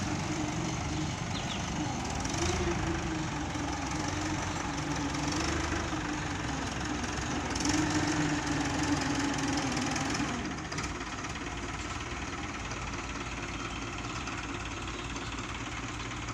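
Heavy diesel engine running, its pitch wavering up and down; it is loudest around eight to ten seconds in, then drops to a quieter, steady run.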